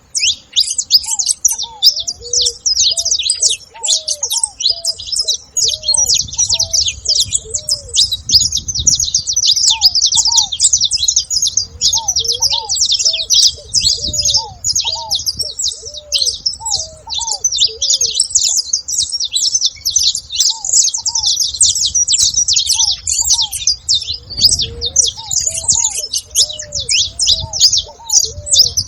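A flock of saffron finches chirping and chattering all at once, many high calls overlapping without a break. Underneath, a lower, short arched call repeats in small groups.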